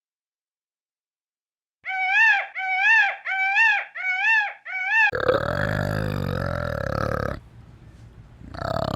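Animal calls: after a silence, five short high-pitched calls that each rise and fall, about two seconds in. Then a loud, low, rough call that breaks off for about a second and starts again near the end.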